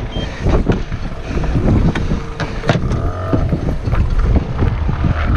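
Strong wind buffeting the microphone, with scattered knocks and clatter of gear on the sailboat and a brief squeal about three seconds in.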